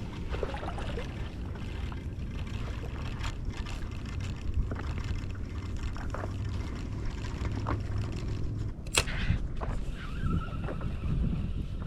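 Sea water lapping and trickling against a stand-up paddleboard, over a low wind rumble on the microphone, with small splashes and a sharp click about nine seconds in.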